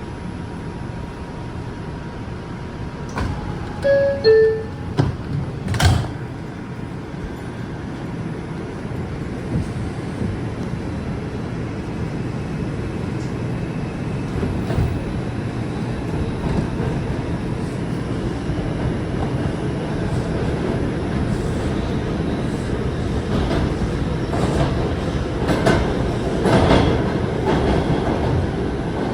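Inside an R142 subway car: a descending two-note chime about four seconds in and a sharp knock of the doors closing just after. The train then pulls away, its running noise building steadily, with clatter over the rails near the end.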